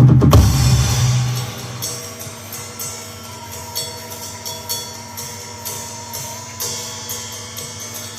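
Mapex Pro M drum kit heard through a large line-array PA: a loud fill ends and the kit rings out, fading over the first two seconds, then light, quick cymbal taps continue over a steady hum.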